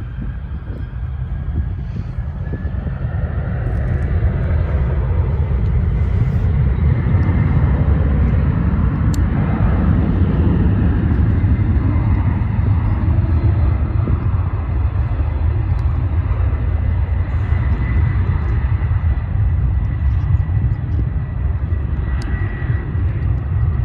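Jet airliner passing close by: a loud, low engine rumble that builds over the first few seconds and then holds, with a thin steady whine above it.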